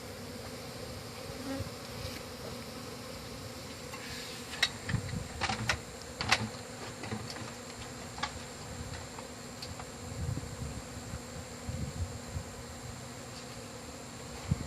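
A honey bee colony buzzing steadily, a continuous hum, with a few sharp clicks and knocks about five to six seconds in.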